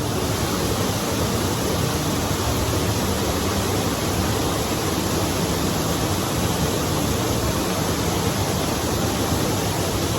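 Steady rushing water, a loud, unbroken rush with no pitch and no pauses.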